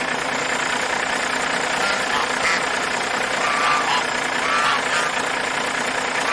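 Farm poultry calling a few times, in short pitched calls, over a steady rushing noise.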